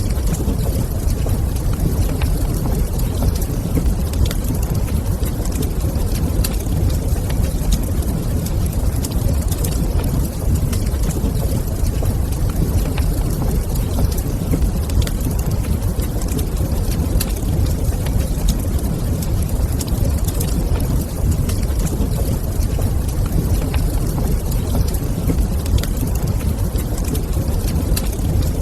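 Fireplace fire crackling, with scattered light pops over a steady low rumble.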